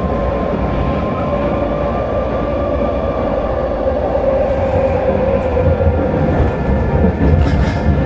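Vancouver SkyTrain car running along the track: a steady rumble with a linear-induction-motor whine that sags slightly in pitch midway, and a few brief hissy clicks near the middle and end.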